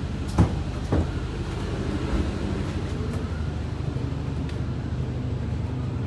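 A houseboat's engine running steadily at a low pitch, with two sharp knocks in the first second.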